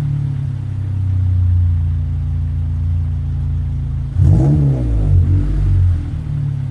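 Toyota 2ZZ-GE 1.8-litre four-cylinder of a 2006 Corolla XRS, breathing through headers, a refitted catalytic converter and a Magnaflow muffler, idling after a cold start. A little past four seconds in it is blipped once, the pitch rising and falling quickly, then swells briefly again a second later.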